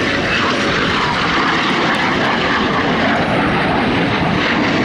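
Jet noise from BAC Strikemaster aircraft in flight, their Rolls-Royce Viper turbojets giving a loud, steady rush.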